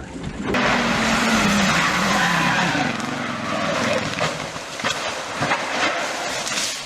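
Racing cars running at speed with tyres skidding, the engine pitch wavering. A few sharp knocks come in the second half.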